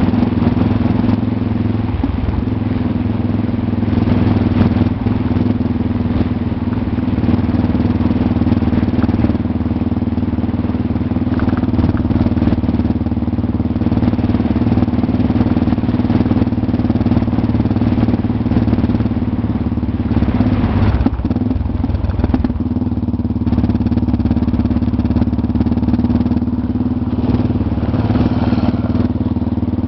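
Motorcycle engine running at a steady pace while riding on a dirt road, with a brief change in engine note about two-thirds of the way through.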